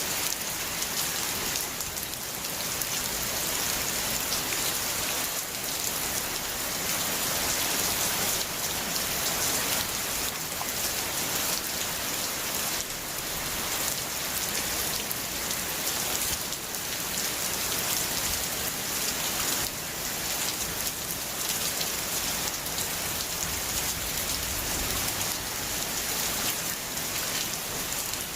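Steady heavy rainfall: a constant hiss of rain with the patter of drops hitting surfaces.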